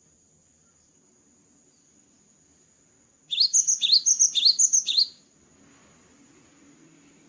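Cinereous tit (gelatik batu) singing a quick burst of about four repeated two-note phrases, each a sharp falling note with a higher note on top, lasting under two seconds from about three seconds in.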